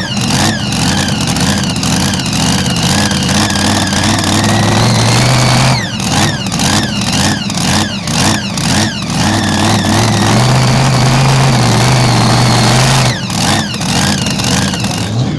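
Mini Rod pulling tractor running hard at high revs, its engine note climbing in long stretches and broken by clusters of quick, sharp pitch drops. It stays loud throughout and stumbles briefly near the end.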